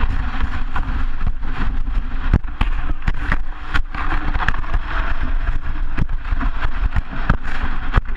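Sled sliding fast over packed snow, heard from a GoPro mounted on the sled's front: a steady loud rumble with frequent sharp knocks as it bumps along the track.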